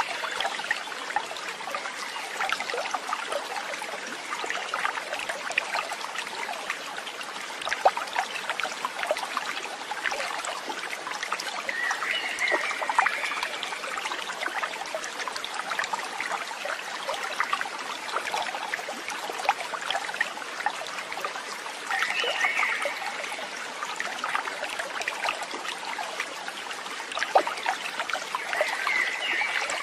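Water trickling steadily, with a short chirping call near the start and then roughly every ten seconds.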